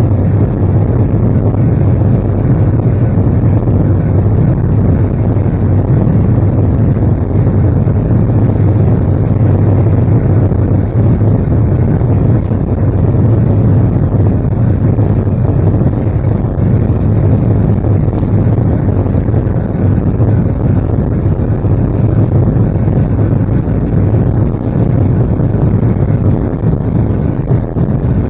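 Boeing 737-800's CFM56-7B jet engines and rushing air making a loud, steady low roar with no change in pitch.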